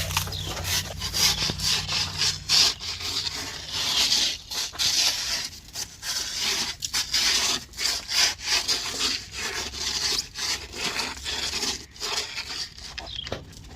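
Irregular, rapid crunching and scraping on ice and ice-crusted snow. A low hum underneath stops about three seconds in.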